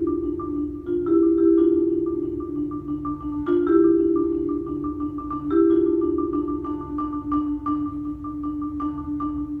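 Solo marimba playing a rolled, sustained low chord that moves to a new chord about every two seconds, beneath a quick, even pattern of repeated high mallet notes. Struck accents come about a second in, about three and a half seconds in and about five and a half seconds in, and the music fades a little toward the end.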